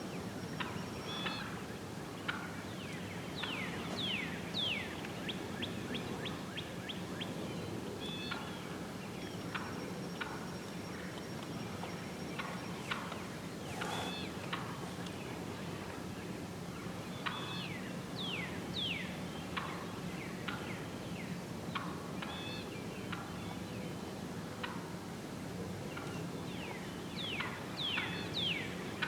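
Wild turkeys gobbling in several rapid rattling bursts, with shorter calls between them.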